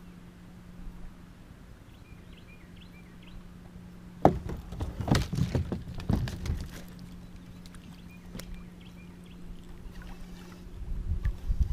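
Hollow knocks and clatter of gear against a kayak, bunched together a few seconds in with one more a little later, over a low steady hum. Low wind rumble near the end.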